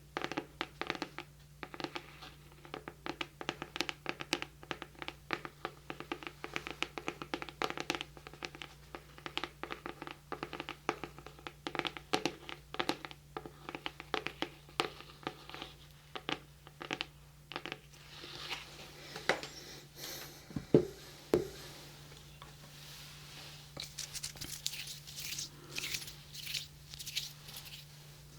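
Rapid, irregular fingertip and fingernail tapping close to a binaural microphone, each tap ringing briefly. About 18 s in it gives way to scratching and rustling, with two louder knocks about 21 s in.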